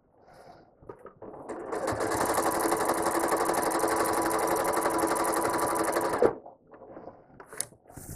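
Home sewing machine stitching at a steady high speed during ruler quilting, a rapid even run of needle strokes. It starts about a second in, comes up to speed, then stops abruptly a couple of seconds before the end, leaving a few faint clicks.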